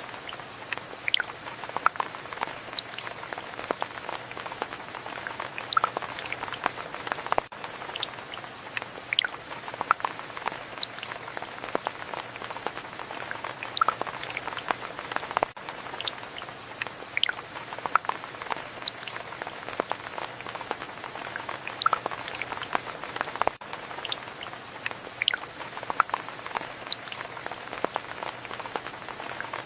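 Steady rain: a constant hiss with many irregular, sharp ticks of individual drops striking close by.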